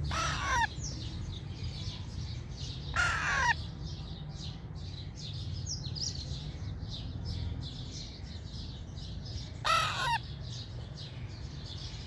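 Three short, loud, harsh bird calls, each falling in pitch: one near the start, one about three seconds in and one about ten seconds in. Faint chirping of small birds runs underneath.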